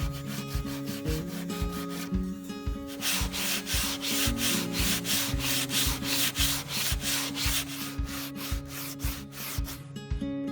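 Rhythmic back-and-forth sanding strokes on wood, strongest from about three seconds in, over background music with a steady beat.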